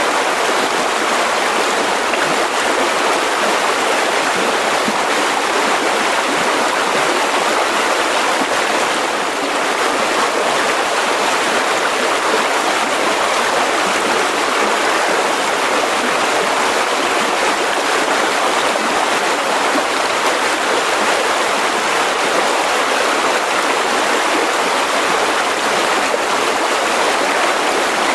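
Mountain river rushing over rocks: a steady, even flow of water.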